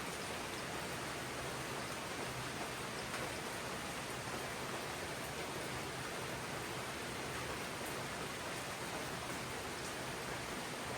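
Steady rain falling on jungle foliage, an even hiss with a few faint drop ticks.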